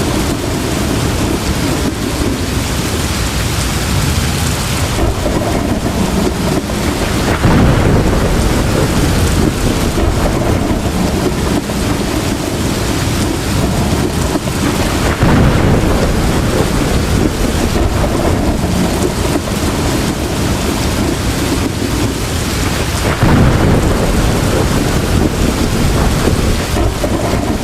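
Heavy rain pouring steadily, with deep swells of rolling thunder three times, about eight seconds apart.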